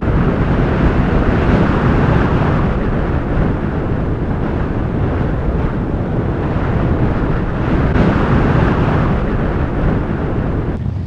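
Strong blizzard wind blowing steadily over the microphone, a loud rushing noise.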